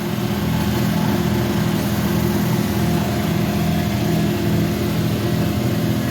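Cutoff wheel running steadily as it cuts through rusted truck-cab sheet metal, a constant motor hum under a hiss of grinding.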